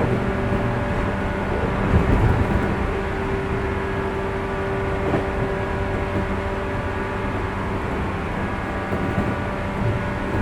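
Interior running sound of a 415 series electric multiple unit's motor car: a steady hum from the MT54 traction motors and gearing at a near-constant speed, over the rumble of wheels on rail. A few low thumps about two seconds in.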